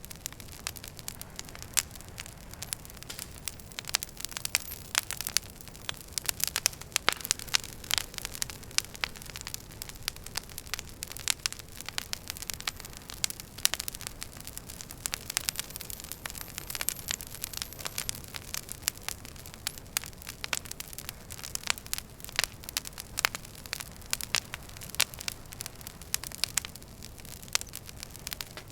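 Wood fire burning in a fireplace, crackling and popping irregularly over a low steady hiss.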